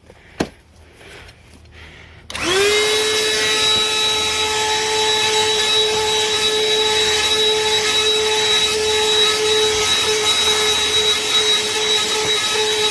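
A Black+Decker 20V dustbuster handheld vacuum (BDH2000L) is switched on about two seconds in. Its motor spins up with a quick rising whine, then runs at a steady high whine with rushing air. A single small knock comes shortly before it starts.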